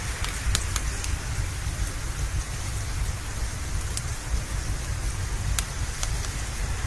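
Steady rain with a deep low rumble underneath, and a few sharp, isolated crackles from a wood fire in a fireplace.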